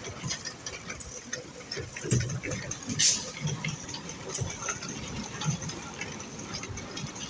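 Asphalt road construction site noise: a low, uneven machine rumble with scattered clattering knocks, and one short sharp hiss-like burst about three seconds in.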